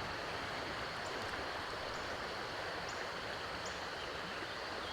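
Steady rush of flowing creek water, with a few faint short high chirps about a second apart.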